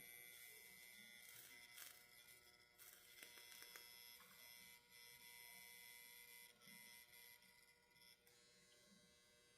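Near silence: a faint steady hum with a few soft clicks, as when work is being done at the bench.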